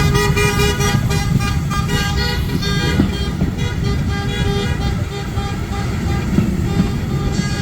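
Historic train's whistle sounding long and steady over a heavy low rumble, weakening after about five seconds.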